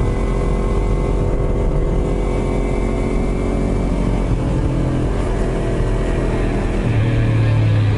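Yamaha YZF-R25 parallel-twin motorcycle engine running steadily under way through bends. Its note changes, with a stronger low hum, about a second before the end.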